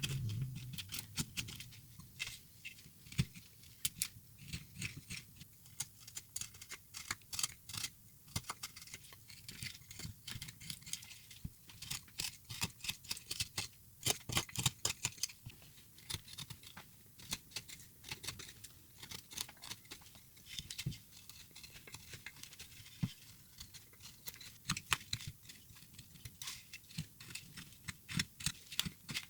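Carving tools cutting into a wooden block, a continual irregular run of small crisp cuts and clicks as the wood is pared away.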